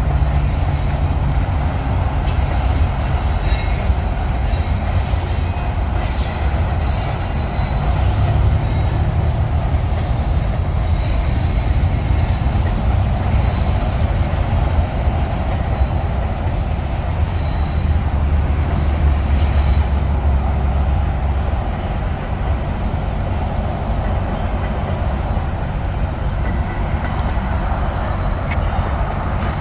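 Freight train cars rolling past with a steady low rumble, and high-pitched wheel squeal coming and going.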